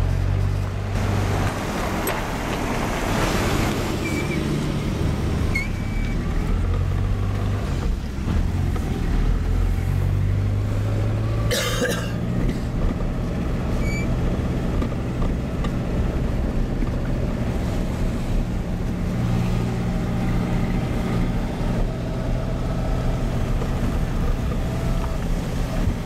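Car engine and road noise heard from inside the cabin of a moving car, a steady low hum that shifts pitch now and then with speed. There is a rising swell of noise a few seconds in and a single sharp click about twelve seconds in.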